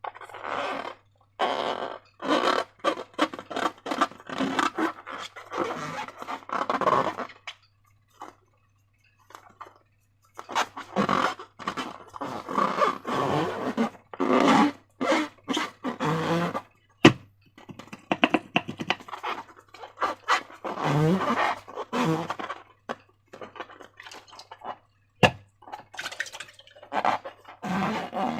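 Slime being squished and worked by hand, wet squelching and crackling in stretches full of small clicks, with two pauses.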